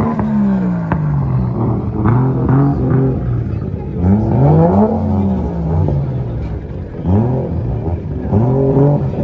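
Car engine revved hard again and again, the pitch climbing and dropping back about four times.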